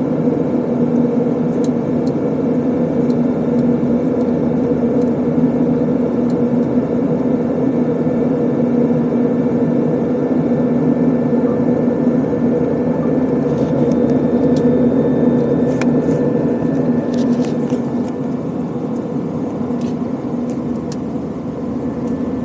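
Steady drone of an Airbus A320 passenger cabin in flight: engine noise and rushing air with a constant low hum, and a few faint clicks in the last few seconds. The sound cuts off abruptly at the very end.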